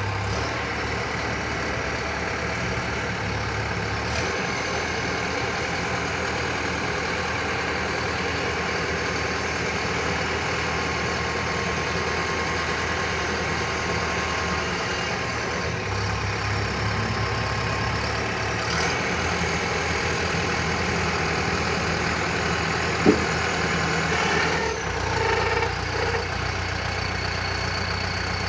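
LS Plus 100 tractor's diesel engine running steadily, its tone shifting slightly now and then, with one sharp click a little over twenty seconds in.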